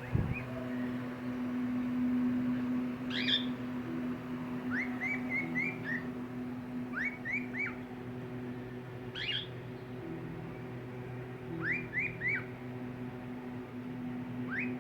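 Cockatiel chirping: short rising chirps in quick groups of two to four, repeating every second or two, over a steady low hum.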